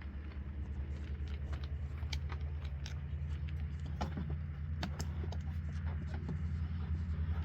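A steady low engine rumble with a fast pulse, slowly growing louder, with scattered light clicks and rattles over it.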